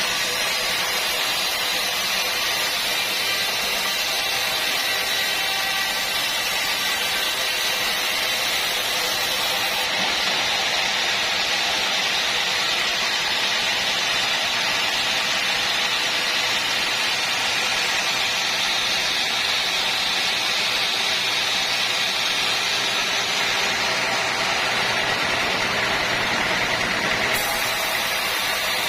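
Sawmill machinery running steadily: an even, hissing drone with a faint low hum underneath, unchanging throughout.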